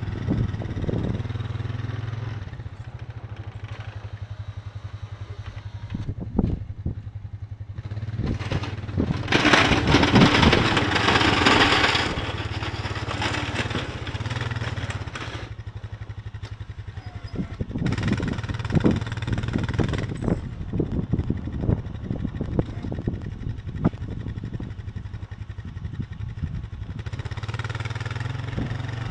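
An engine running steadily with a low hum, with a louder rushing noise for a few seconds about nine seconds in and some scattered knocks.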